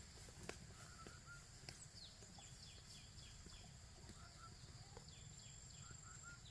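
Faint bird calls: a quick run of short downward-slurred whistles, repeated a little later, and short lower chirps in twos and threes, over a steady thin high-pitched tone and a few faint knocks.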